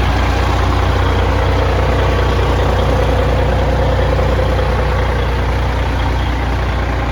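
Caterpillar diesel engine of a 1995 Ford Aeromax truck idling steadily, a little quieter near the end.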